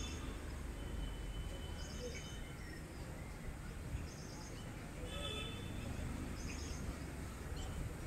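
Outdoor ambience of birds calling: short high chirps recur about every two seconds, with a lower, fuller call about five seconds in, over a low steady rumble.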